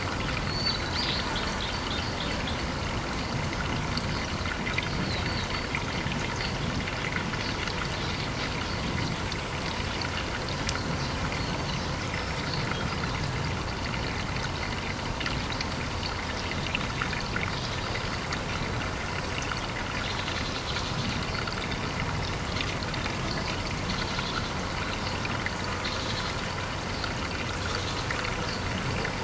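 Pond water trickling and pouring steadily, with small irregular splashes and drips throughout.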